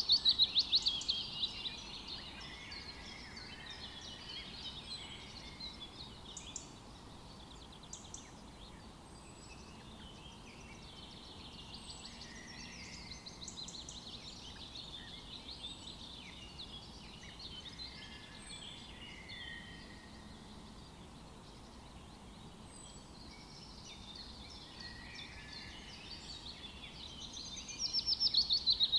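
Forest birdsong: several birds singing at once, with a loud, rapid series of notes falling in pitch at the start and again near the end, over a faint steady background hiss.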